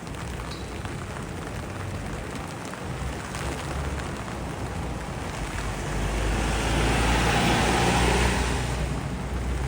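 Road traffic with a rushing tyre hiss over a low engine hum. A vehicle passes close, growing louder from about six seconds in and easing off near the end.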